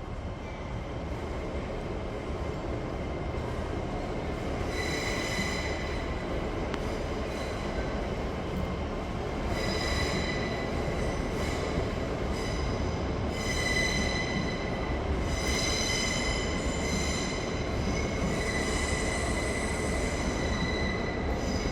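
LNER Class 800 Azuma train pulling out of the station with a steady low rumble. High-pitched wheel squeal comes and goes several times from about five seconds in.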